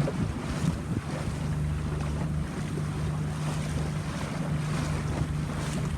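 Boat engine running steadily with a low hum, under wind buffeting the microphone and the wash of water.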